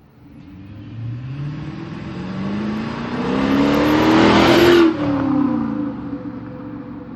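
Chrysler 300C's V8, its mid muffler deleted, accelerating hard under load with the exhaust note climbing steadily in pitch and growing louder. Just under five seconds in it peaks and cuts back suddenly, then falls away in pitch and level as the car moves off.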